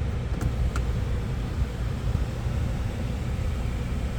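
BMW TwinPower Turbo engine idling, a steady low rumble heard from inside the cabin, with a couple of faint clicks in the first second.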